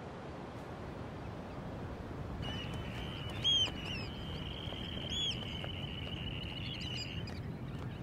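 Bird calls: two short arched calls about a second and a half apart over a steady high-pitched tone, with low outdoor ambient noise underneath.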